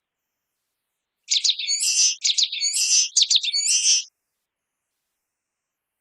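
Common waxbill singing one high-pitched song phrase of about three seconds, starting about a second in: three repeats of a few quick sharp notes, each followed by a longer buzzy note.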